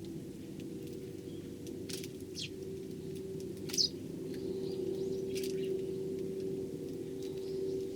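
Eurasian tree sparrows giving a few short, scattered chirps over a steady low hum.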